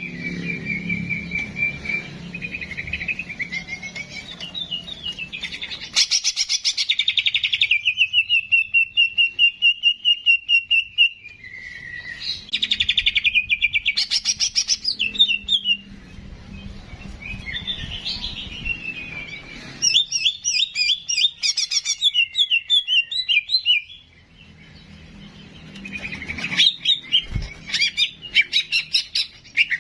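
Songbird singing a long, varied song of fast chirps, trills and whistled slurs, with a short pause a little past the middle; a masteran tutor recording of the kind played to teach captive songbirds.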